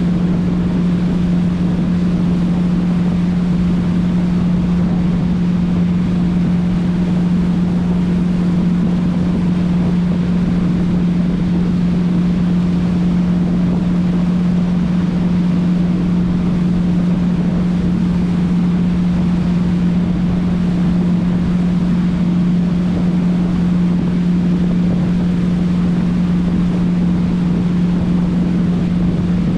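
Motorboat engine running at a constant speed: one steady, unchanging hum, with the rush of wind on the microphone and water noise underneath.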